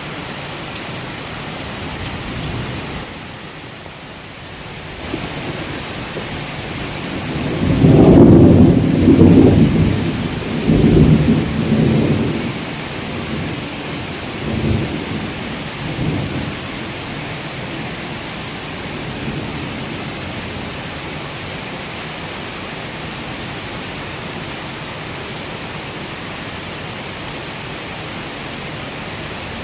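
Heavy rain falling steadily, with a loud rolling thunderclap about eight seconds in that rumbles on for several seconds and fades out in a couple of fainter rumbles.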